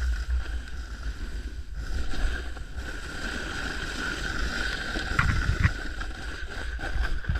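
Snowboard sliding and scraping over snow, a steady rushing hiss with low wind rumble on the microphone; two sharp knocks come a little past five seconds in.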